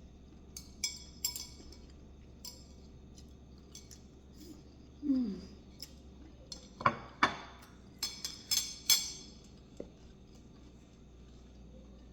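Cutlery and dishes clinking and knocking: scattered light clinks, then a run of sharper, louder knocks between about seven and nine seconds in. A short pitched sliding sound comes about five seconds in.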